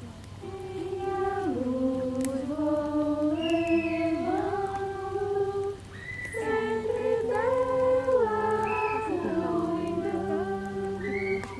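Voices singing a slow song without accompaniment, holding long notes and stepping gently from pitch to pitch.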